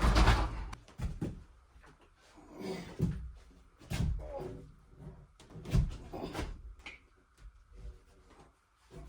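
Irregular knocks and thumps, about one every second or two, the loudest right at the start: wood being handled or struck during log cabin work.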